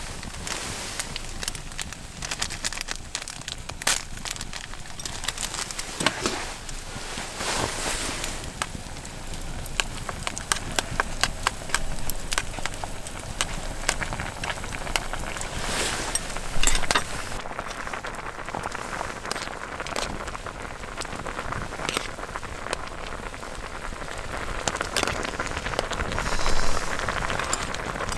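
Wood campfire crackling, with irregular sharp pops over a steady hiss and a louder pop about two-thirds of the way through.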